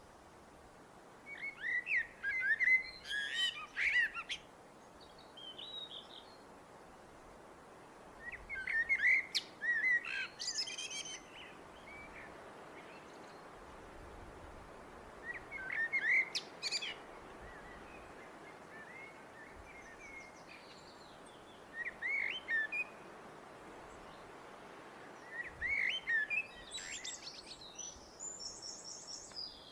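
Eurasian blackbird singing: about five separate phrases several seconds apart, each a low fluting warble that ends in a high, squeaky twitter, over a steady faint background hiss.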